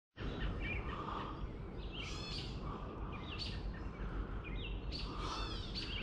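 Birds calling in the trees: short chirps and sweeping whistled notes every second or so, over a steady low background rumble.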